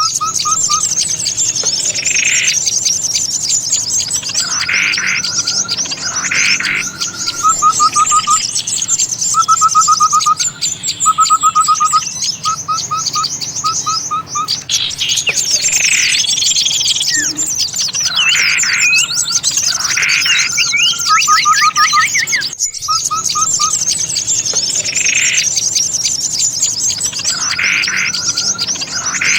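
Bird-lure recording of many small songbirds calling at once: constant high twittering, repeated short bursts of quick trills, and falling calls. The recording breaks off briefly a little over 22 seconds in and starts the same chorus over as a loop.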